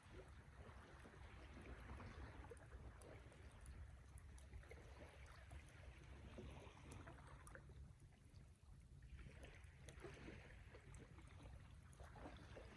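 Campfire burning, faint: scattered small crackles over a soft hiss that swells and fades, with a low steady rumble underneath.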